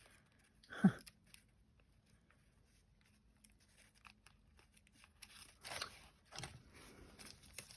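Thin paper tissue rustling and crinkling in the hands as its layers are peeled apart, in scattered bursts that grow busier in the second half. There is a brief murmured voice about a second in.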